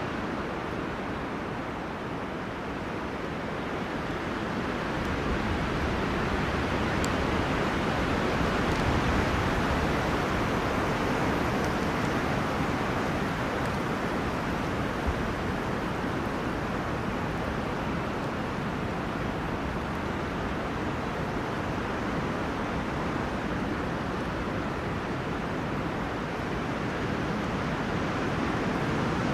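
Wind blowing through forest trees: a steady rushing of leaves and branches that slowly swells and eases.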